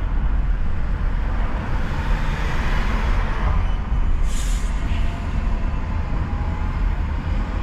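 Steady low rumble of a car driving, with road and engine noise, and a short sharp hiss about four and a half seconds in.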